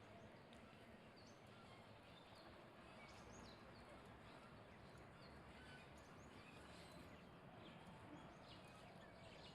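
Near silence: faint, scattered bird chirps over a low steady background hiss.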